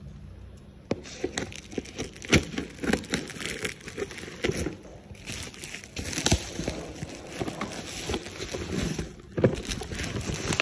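Packaging being handled and opened by hand: crinkling and rustling with irregular clicks and knocks, and a sharper knock or two near the middle and near the end.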